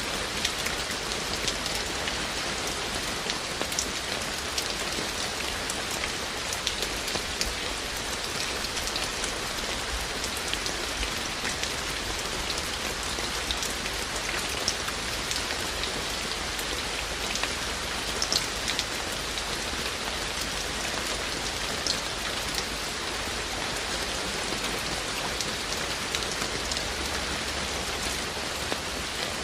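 Steady rain falling, with many individual drops ticking sharply on hard surfaces over the continuous patter.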